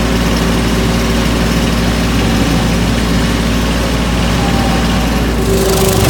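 Mahindra 1526 compact tractor's diesel engine running steadily under load, driving a 5-foot rotary cutter through tall grass. Near the end the sound changes as a steady higher whine and more hiss come in.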